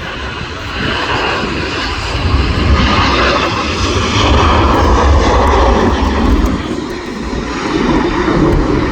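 Jet airliner's engines roaring, swelling about a second in and easing slightly near the end.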